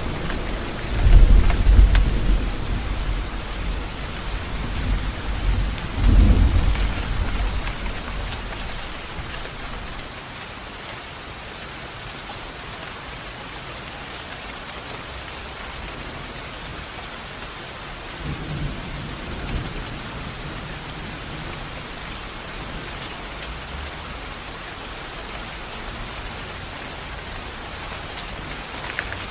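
Steady rain with rolling thunder: two loud low rumbles in the first few seconds that die away, then a fainter rumble about two-thirds of the way through, over an even hiss of rain.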